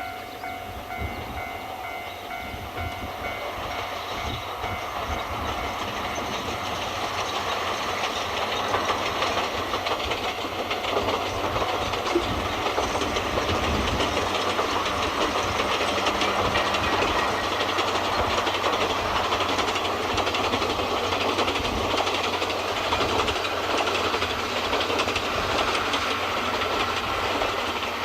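A train running past on the line, building up over the first several seconds and then running steadily, with the wheels clattering over the rail joints. A steady pitched tone sounds at the start and fades within about two seconds.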